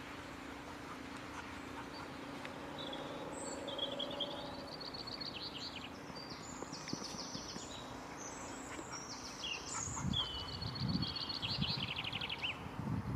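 Small birds singing outdoors: repeated high chirps and fast trills, over a steady low hum. From about ten seconds in, a run of low thuds sets in.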